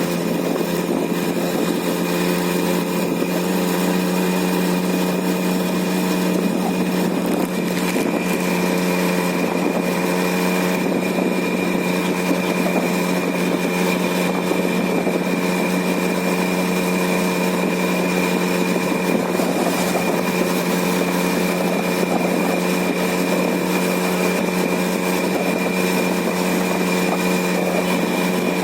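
Small engine of a TVS 50 moped running at a steady speed while riding, an even drone that holds one pitch throughout.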